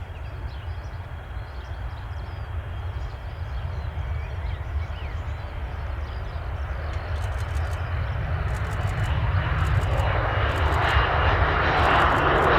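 Jet airliner engines, a low rumble with a rushing noise that grows steadily louder, swelling sharply near the end as the aircraft comes close.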